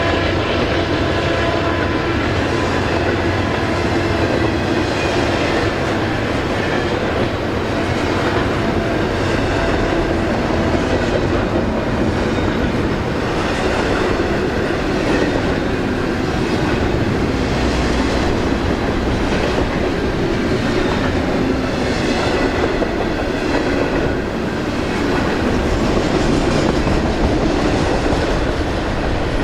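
A BNSF intermodal freight train of trailer cars rolling past: a steady rumble of wheels on rail, with a repeated clickety-clack as the wheels cross rail joints.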